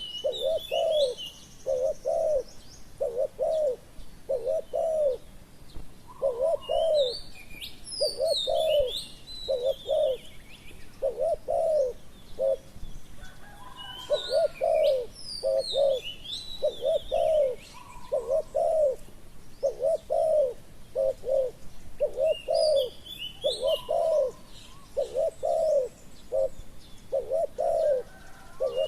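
Spotted dove cooing over and over in short, low coos, with bursts of high chirping from small birds several times.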